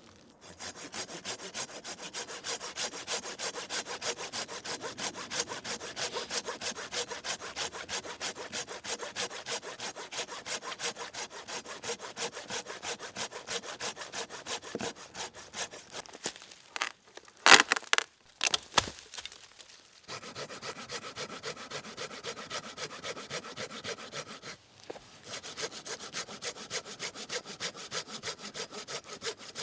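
Hand saw cutting through wood with steady, even back-and-forth strokes. About halfway through the sawing stops, there are a few loud sharp knocks, and then it starts again.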